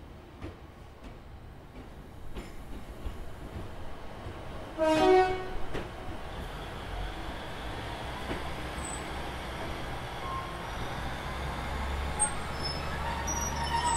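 Train horn sounding once for about a second, then the rumble and running noise of a train building steadily, with brief high wheel squeals near the end.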